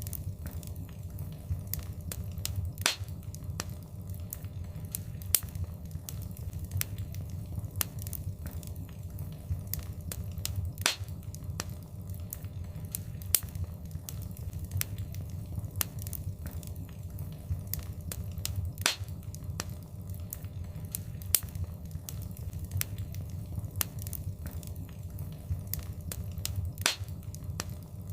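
Wood fire crackling: a steady low rumble of flames with frequent sharp pops and snaps, a few of them louder.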